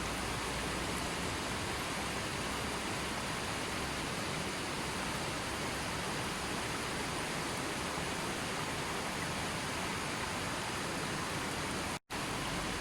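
Steady rushing water, an even hiss with no change in level, broken by a split-second dropout to silence near the end.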